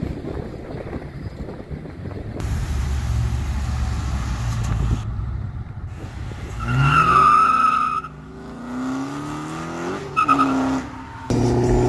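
A car accelerating hard: the engine note rises steeply about seven seconds in, with a high squeal over it that fits tyres breaking loose, then climbs again as the car pulls away. Wind rumbles on the microphone before it, and near the end a steady engine drone takes over.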